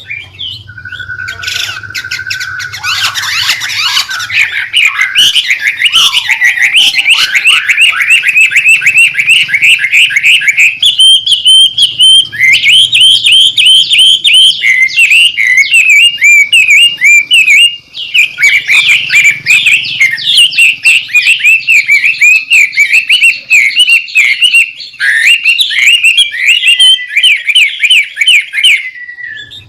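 White-rumped shama (murai batu) singing loudly in a busy, continuous song of fast repeated notes and chattering phrases, opening with a short held whistle and pausing only briefly partway through.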